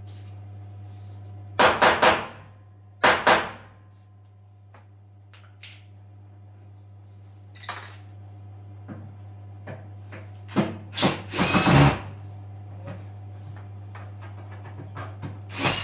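Sharp metal knocks and clatter in a few short clusters, typical of hammer taps and tools on a washing machine's rusted bolts, over a steady low hum.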